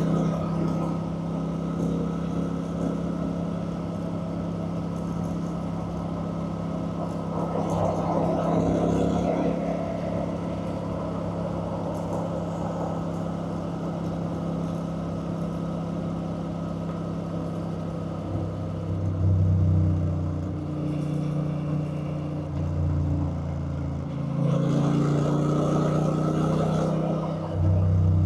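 Honda Rebel 1100's parallel-twin engine running while riding, steady at first, then its pitch stepping up and down several times in the second half. A rush of noise swells about eight seconds in and again near the end.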